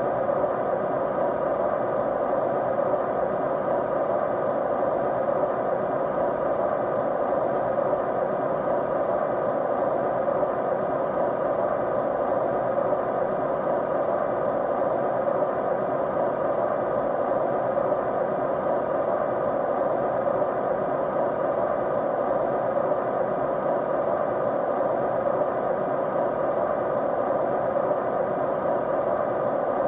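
Steady white noise: a constant, unchanging hiss, strongest in the middle and lower-middle range, with a few faint steady hum tones underneath.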